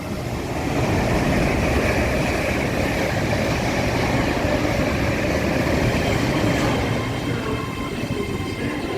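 Train running past on the track: a steady rush of wheel and rail noise with a low rumble, building over the first second and easing off after about seven seconds.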